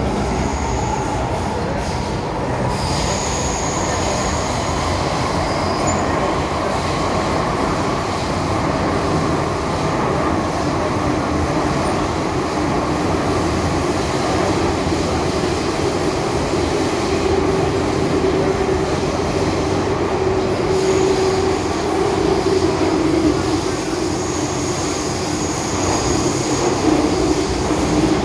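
MTR M-Train electric multiple unit running at speed, a steady rumble of wheels on rail. High wheel-squeal tones come in near the start and again near the end, and a lower squealing tone runs through the second half.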